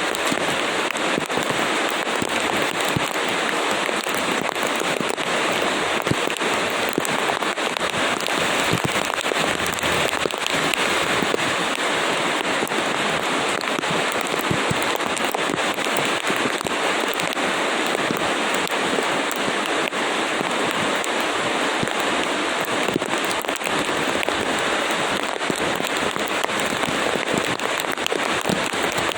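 Steady, fairly loud rainfall: a dense, even hiss of rain with many sharp individual drop hits throughout.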